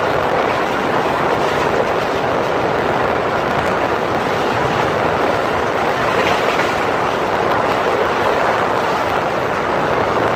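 Passenger train coaches running at speed, heard from aboard: a steady rush of wheels on rails mixed with wind.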